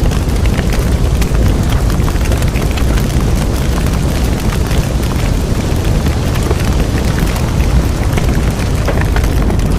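Bonfire burning: a steady low rumble of flames with frequent irregular crackles and pops from the burning wood.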